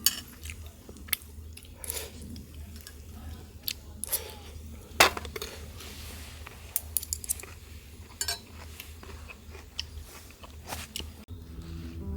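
Scattered clicks, clinks and crunches of camp cookware and utensils being handled, over a steady low rumble. The sharpest knock comes about five seconds in.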